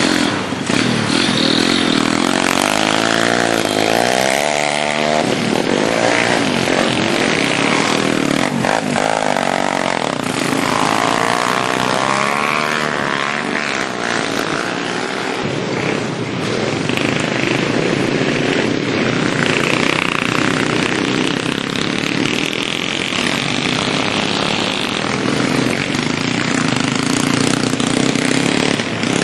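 Small minibike (pit bike) engines running hard and revving, their pitch repeatedly rising and falling.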